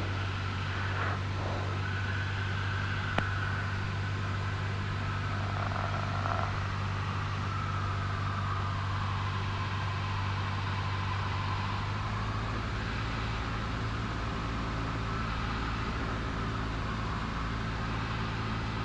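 1977 Cessna 172N's four-cylinder Lycoming engine and propeller droning steadily in flight, heard in the cabin. The drone shifts in tone about twelve seconds in.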